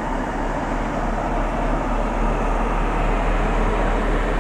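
Red self-propelled accident relief medical train moving slowly past, giving a steady rumble of engine and running noise with a low hum underneath.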